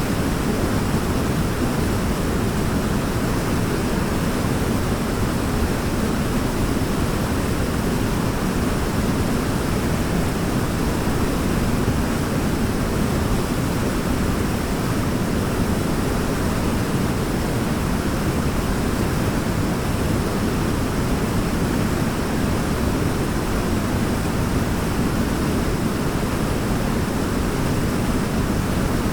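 Waterfall: a steady, even rush of falling water, heavy in the low end, with no change throughout.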